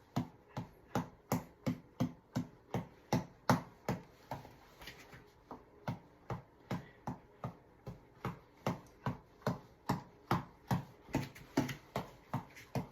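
Tap ball, a reflex ball on an elastic cord, being punched over and over: sharp, even knocks at about three a second, briefly faltering a little before the halfway point and then picking the rhythm back up.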